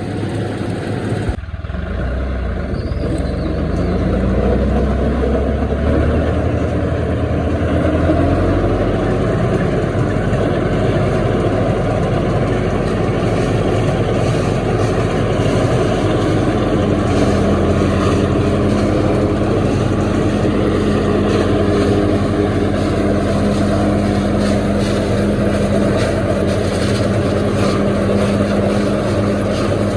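Silage harvester running: steady, loud engine and machinery noise. The engine pitch rises a couple of seconds in, then holds steady.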